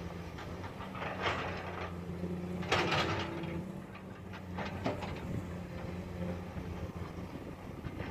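Komatsu PC200 hydraulic excavator's diesel engine running steadily, with bursts of scraping and clatter from bucket work: one about a second in, the loudest around three seconds in, and a shorter one near five seconds.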